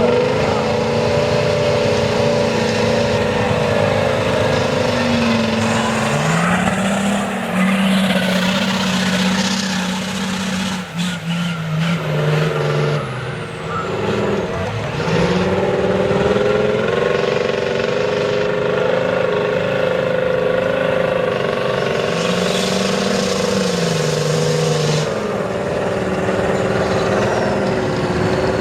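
A mega truck's big engine running loud and steady in a mud bog. Its pitch shifts up and down a few times and eases off briefly about halfway through.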